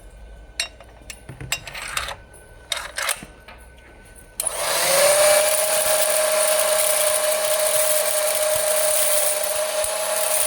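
A few scattered clicks and rattles, then about four seconds in a grain-sorting machine starts up: a hum that rises briefly in pitch and settles into a steady whine over a loud hiss, as a batch of grain is run through it again.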